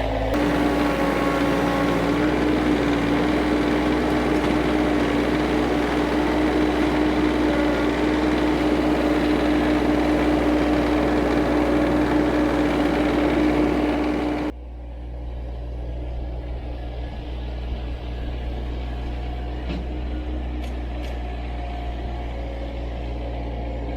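Subcompact tractor engine running steadily with a steady whine. About two-thirds of the way through, the sound drops abruptly and carries on quieter and duller.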